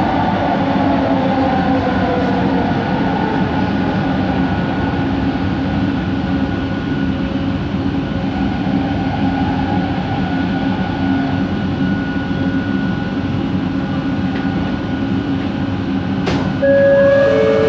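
Bombardier Innovia ART 200 train heard from inside the car while running, its linear induction motor giving a whine that falls in pitch over the first few seconds, over steady running noise. Near the end there is a click, and a louder steady tone comes in.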